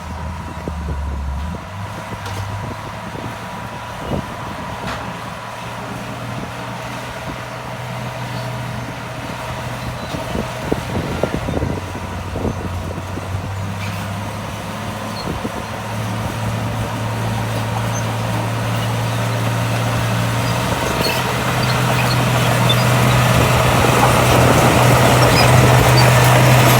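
Heavy diesel earthmoving engine running steadily, getting louder and a little higher in pitch over the last ten seconds, with a few short knocks about four and eleven seconds in.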